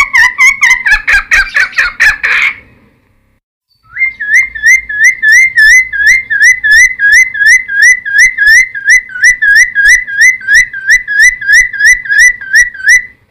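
Cucak timor (friarbird) song: a fast chattering run of repeated notes for about two and a half seconds, a brief pause, then a long even series of loud, upward-hooked whistled notes, about three a second.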